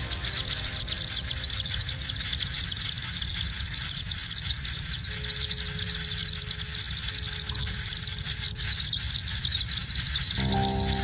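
Kingfisher nestlings keep up a continuous, high-pitched squealing call from the nest, with a fast, rapid flutter in it.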